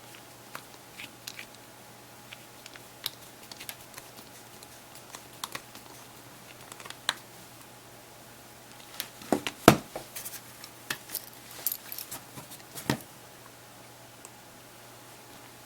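Scattered light clicks and taps of a small screwdriver and tiny screws on the plastic case of a Samsung Galaxy Player as it is screwed back together, with a denser run of sharper clicks about nine to thirteen seconds in.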